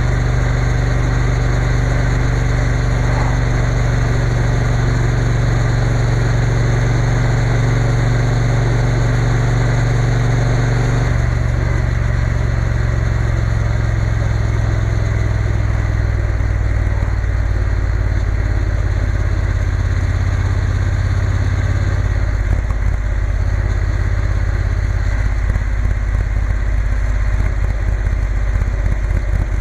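Triumph Bonneville T120's parallel-twin engine running steadily under way, its note shifting about eleven seconds in and again about twenty-two seconds in.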